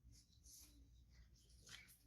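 Near silence: low room rumble with a few faint, brief hissy rustles.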